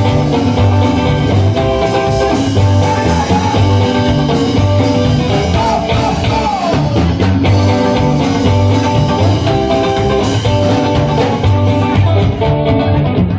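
Rock and roll band playing an instrumental break: a lead guitar solo with bent, sliding notes over a steady bass and drum beat.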